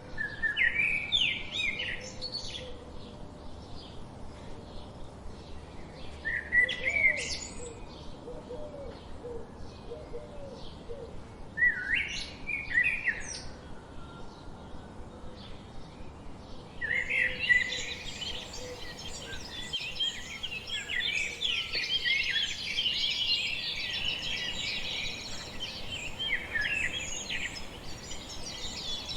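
Wild songbirds singing in spring: a few separate song phrases, spaced several seconds apart, then from just past halfway many birds chirping at once in a dense, continuous chorus.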